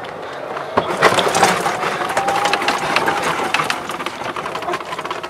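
Golf cart setting off and driving, its motor giving a faint steady whine under a dense crackling and crunching that starts about a second in.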